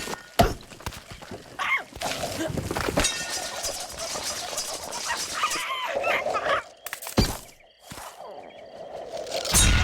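Cartoon sound effects: a run of sharp thumps and knocks mixed with wordless animal-like squawks and grunts from the characters.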